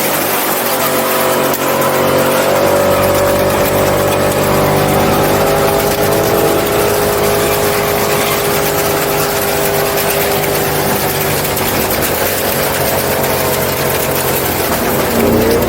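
A truck's engine running at high, fairly steady revs, its pitch drifting slowly and wavering near the end, over a dense hiss of noise.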